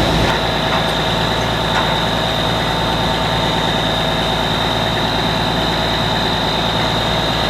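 Water-well drilling rig running steadily: a heavy engine drone with a steady high whine over it.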